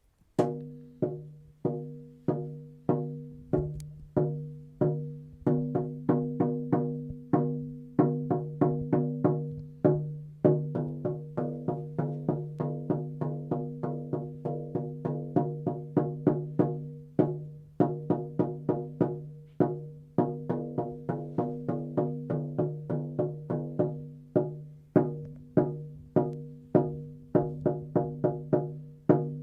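14-inch deer-hide frame drum with a maple hoop, struck repeatedly with a sound healing beater; each stroke rings with a deep, sustained tone. The beats start about two a second and quicken to a faster, steady pattern from about eight to ten seconds in.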